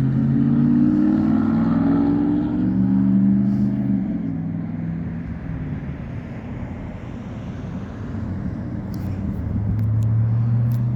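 Car engines running on a road as traffic goes by. A low engine hum swells over the first four seconds, fades, and comes back strongly near the end.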